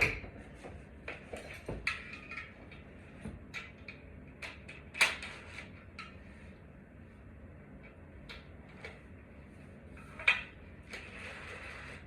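Intermittent clicks, knocks and light clatter of small hard objects being handled and set down. The sharpest knocks come at the very start, about five seconds in and about ten seconds in.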